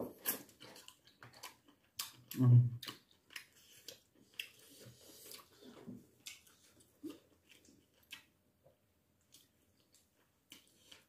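Eating sounds: chewing and wet mouth and lip smacks with scattered small clicks as boiled chicken is eaten by hand. One short, louder, low sound comes about two and a half seconds in.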